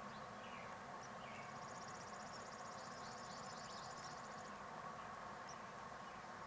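Faint, scattered bird chirps over a steady hiss and hum, with a high, rapid trill running for about three seconds from about a second and a half in.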